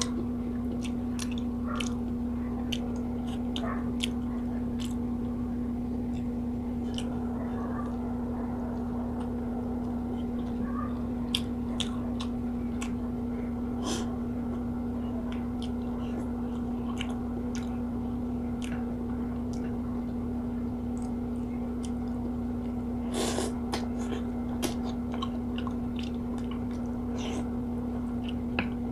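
Close-up chewing and mouth sounds of a person eating rice and fried fish by hand, with many small sharp clicks, over a steady low hum. A brief louder noisy burst comes about two-thirds of the way in.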